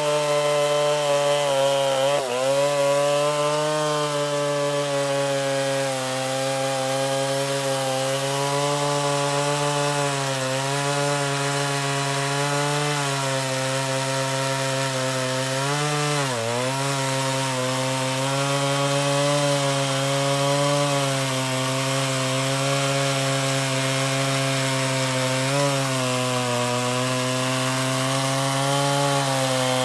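Modified Stihl Contra Lightning two-stroke chainsaw, enlarged to 137 cc, running at high, steady revs. The revs dip briefly about two seconds in, again around sixteen seconds in, and slightly near the end.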